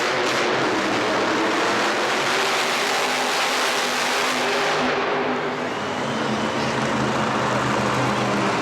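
Monster truck engine running loud, a full roar for about the first five seconds that then eases into a steadier, lower running note.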